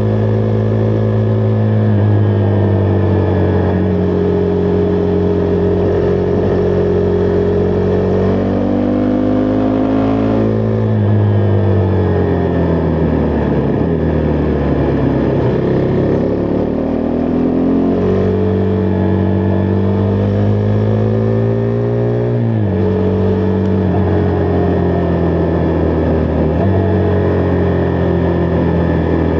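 Husqvarna Vitpilen 401's single-cylinder engine pulling the bike along the road, its pitch rising as it accelerates and dropping sharply at gear changes about eleven and twenty-two seconds in. Between the shifts the revs sag and then climb again, and the engine holds a steady pitch near the end.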